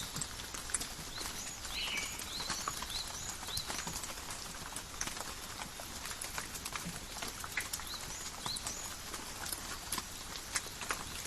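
Calm rain falling in a forest, a steady hiss with many separate drops ticking close by. Short high chirps come several times in the first few seconds and once more past the middle.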